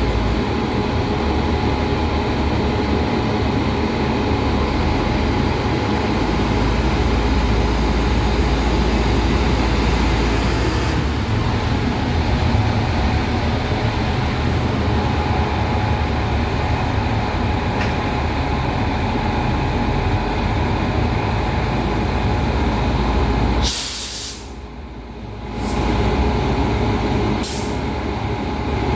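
A railway machine running with a steady mechanical drone and a steady whine. Near the end a short hiss, after which the noise drops briefly and then comes back.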